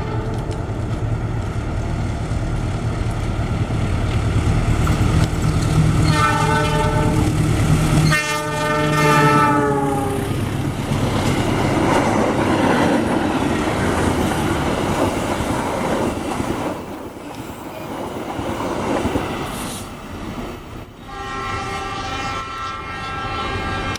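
Diesel-hauled passenger train passing close. The locomotive's engine rumbles as it approaches, and its horn sounds twice, about six and eight seconds in, the second blast dropping in pitch as the locomotive goes by. The carriages then roll past with a rushing wheel-on-rail noise, and the horn sounds again near the end.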